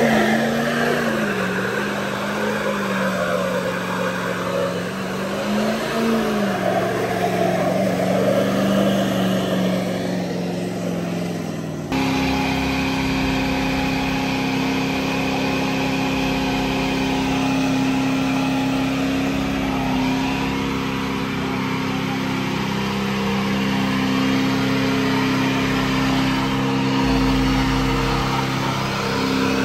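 Truck engines running. The engine pitch rises and falls during the first part, then after a sudden cut about twelve seconds in, a steady, even engine drone.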